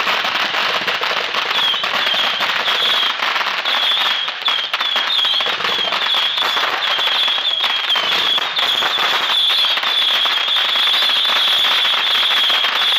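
Fireworks finale: a dense, continuous crackle of crackling-star shells popping overhead. A high wavering whistle-like tone runs through it from about two seconds in.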